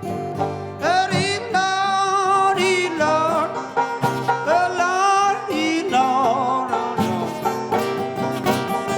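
Acoustic blues played on guitar and banjo, an instrumental break between verses. A lead line slides and bends in pitch with a wavering vibrato over a steady plucked bass line.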